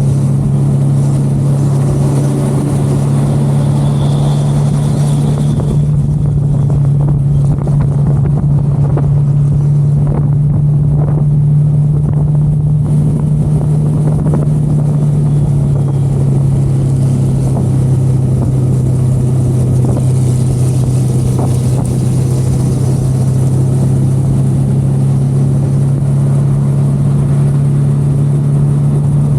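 Motorcycle engine running at a steady cruising speed, a constant low hum that holds one pitch, with wind and road rushing over it.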